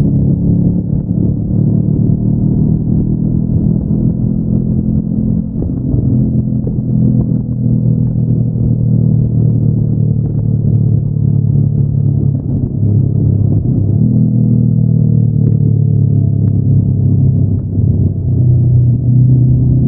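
Honda NX500's parallel-twin engine pulling the motorcycle along through its stock exhaust, a steady low engine note. Its pitch sags slowly through the middle, then steps up again about two-thirds of the way in.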